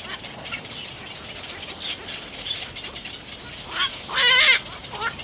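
Little egrets calling at the nest: one loud, wavering call about four seconds in, with shorter calls just before and after it.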